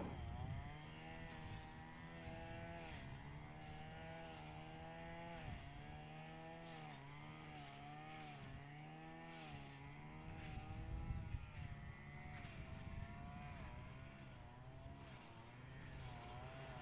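Faint engine drone with a steady pitch and many overtones, swaying slightly up and down every second or two.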